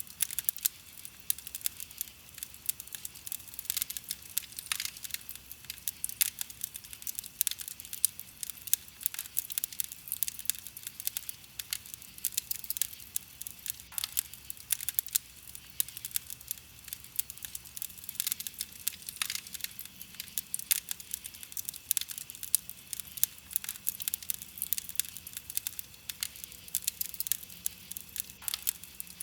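Burning wood crackling and popping in a campfire: a dense, irregular run of small crackles with scattered louder pops, over a soft hiss.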